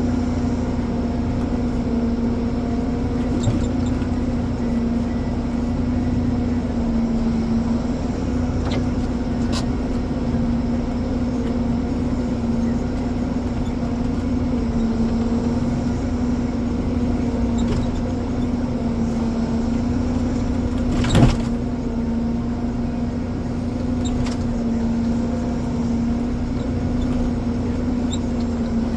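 Ponsse Elephant forwarder's diesel engine running steadily at an even speed, with a few light clicks and one louder knock about two-thirds of the way through.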